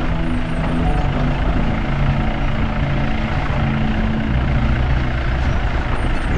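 Car driving: steady engine and road rumble, the engine's pitch stepping up and down a few times.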